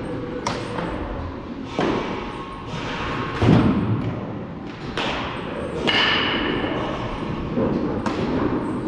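Baseballs striking hard during practice: about six sharp impacts, roughly one every second and a half.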